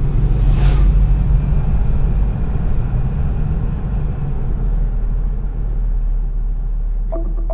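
Steady low rumble of a vehicle on the move in traffic, with a brief swell of noise under a second in. Music with a repeating beat starts just before the end.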